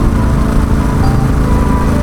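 Yamaha XSR700's parallel-twin engine running steadily under way through an SP Tadao Power Box Full RS aftermarket exhaust, mixed with wind noise.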